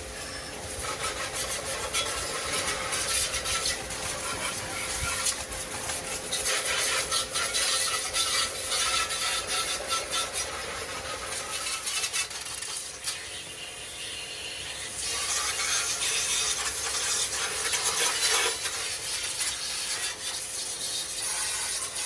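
Irregular scrubbing and rubbing noise from cleaning a hand tiller, with a faint steady hum running underneath.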